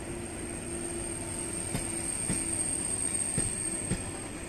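Passenger coaches of a locomotive-hauled train rolling slowly past, with a steady rumble and hum and a thin high steady whine. The wheels click over rail joints four times, in two pairs about half a second apart.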